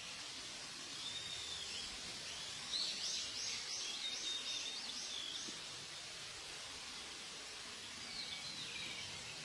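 Small bird calling. It gives a short call about a second in, then a quick run of about seven repeated high chirps about three seconds in, and a few more calls near the end, over a steady outdoor hiss.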